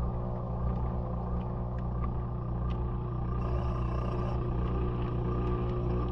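Maytag washing machine running, heard from inside the drum through the GoPro's housing: a steady low hum and rumble with occasional faint clicks.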